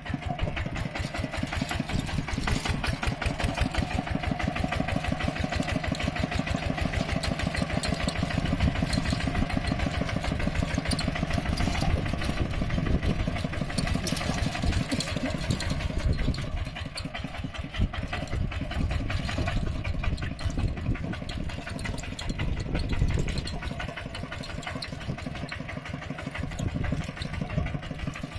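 Mini tractor engine running steadily, its rapid, even firing pulses throughout; the engine gets a little quieter about halfway through.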